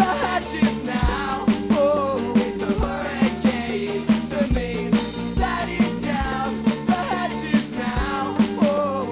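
A band playing an instrumental passage of a rocksteady-style song: a wavering lead melody over steady bass notes and regular drum hits.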